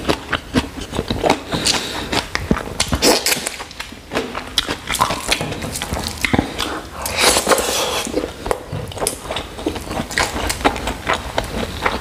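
Close-miked eating sounds of a person eating chicken curry and noodles by hand: wet chewing and lip-smacking in a dense run of irregular clicks.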